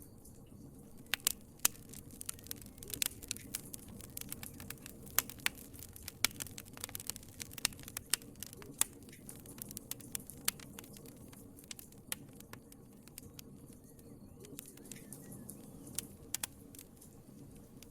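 Wood fire crackling in a fireplace: irregular sharp pops and snaps over a low steady rumble of flames, thickest in the first two-thirds and sparser near the end.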